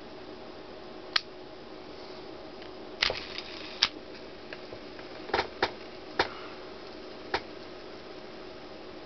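About seven sharp clicks and knocks, spaced irregularly, from handling a freshly cleaned and greased TD-X fishing reel, over a steady low hum.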